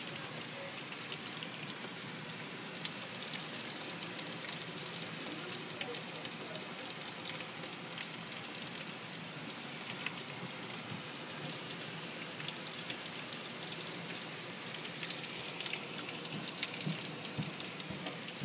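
Torrential rain falling: a steady hiss of heavy downpour, with scattered sharp ticks of drops striking close by.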